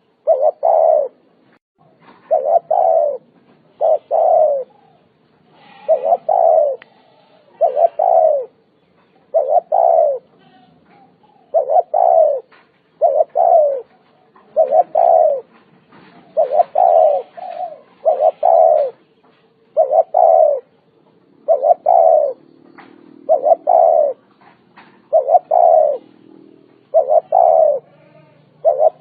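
Spotted dove (Vietnamese cu gáy) cooing over and over: short, low, slightly falling coo phrases, each well under a second long, repeating about once a second with brief gaps.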